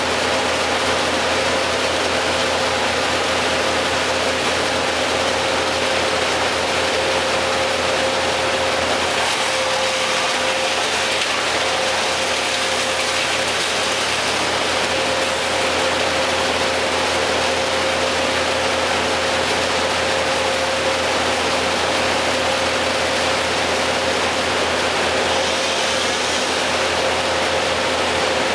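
Heavy machinery running steadily at a work site: a constant, rattling mechanical noise with a steady hum, unchanging throughout.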